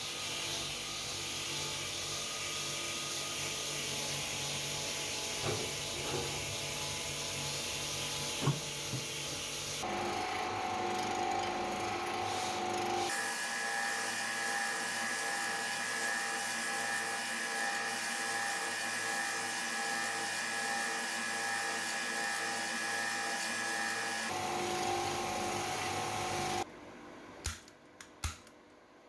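A power tool running steadily with a whirring hum, its pitch and tone changing abruptly a few times. It stops shortly before the end, leaving a few sharp clicks.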